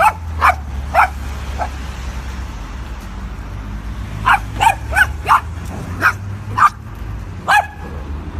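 A dog giving short, high barks or yips in quick runs: four, a pause of a couple of seconds, then about seven more, over a low steady rumble.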